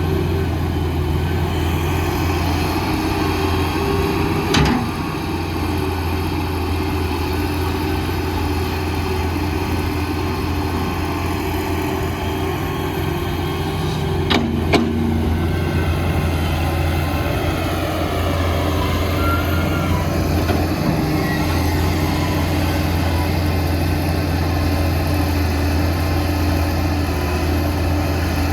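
Heavy construction machinery's diesel engine running steadily with a deep drone, broken by a few sharp knocks: one about four and a half seconds in and a pair around fourteen seconds in.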